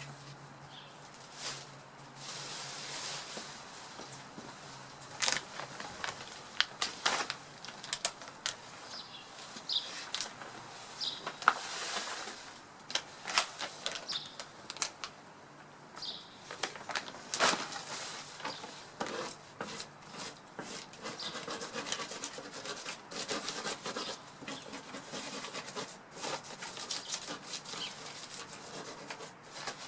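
Birds moving about in a tree, with irregular wing flutters, rustling and sharp clicks among the branches, and a few short faint chirps.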